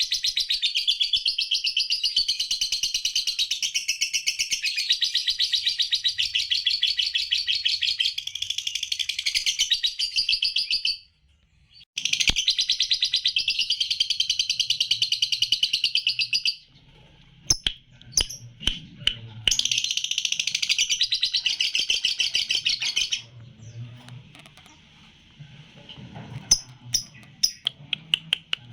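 Three-month-old lutino lovebird singing a long, rapid, shrill chattering song in three bouts. The first lasts about eleven seconds and the next two are shorter, each broken by brief pauses full of sharp single chips. The short pauses between bouts are the 'jeda rapat' that lovebird song fanciers look for.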